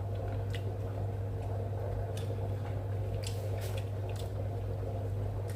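A steady low hum with a few small scattered clicks and taps.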